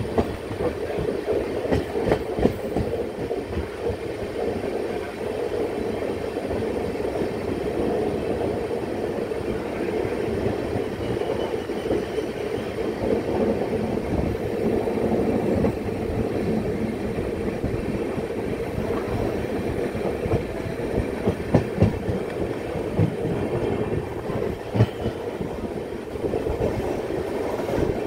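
Indian Railways express passenger train running along the line, heard from aboard a coach: a steady rumble of wheels on rail with irregular clicks and knocks as the wheels pass over rail joints and points.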